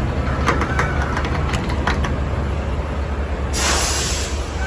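Semi truck's diesel engine running steadily, with scattered clicks and a short burst of air hiss about three and a half seconds in.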